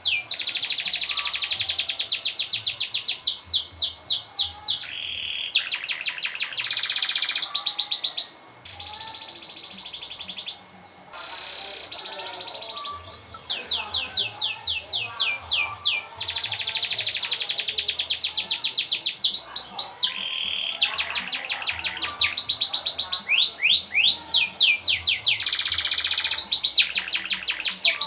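Domestic canary singing continuously: long rolling trills of rapidly repeated high sweeping notes, phrase after phrase, with a softer, quieter passage about a third of the way through.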